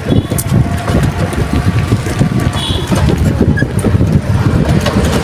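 Heavy wind buffeting on a handheld phone microphone during a bicycle ride on a road, a dense low rumble that keeps fluctuating, with a short high chirp about halfway through.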